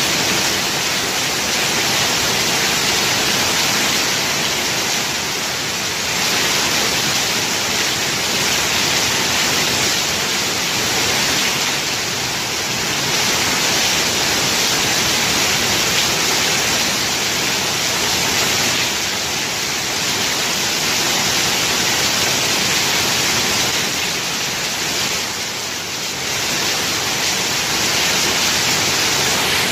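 Heavy rain falling steadily, a dense hiss that swells and eases slightly every few seconds.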